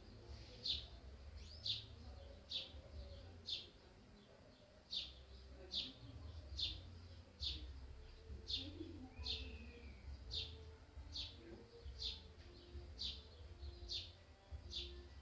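A bird chirping faintly, with short high chirps repeating about once a second over a low hum.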